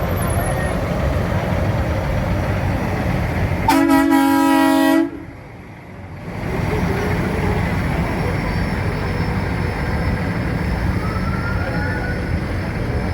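A vehicle horn sounds one loud, steady blast of just over a second, about four seconds in, over a continuous background of engines and crowd noise.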